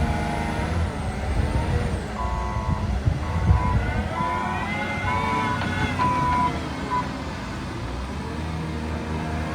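Engine of a heavy machine running and changing speed as it works the track, with its reversing alarm beeping about once a second for some five seconds from about two seconds in.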